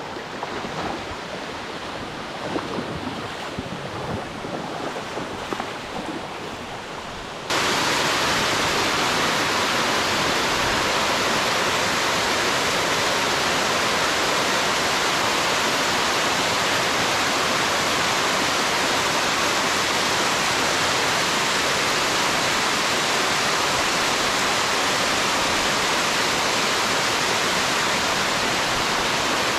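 Steady rush of water from a small river waterfall. About seven seconds in it jumps suddenly to a much louder, even rush of falling water that holds steady.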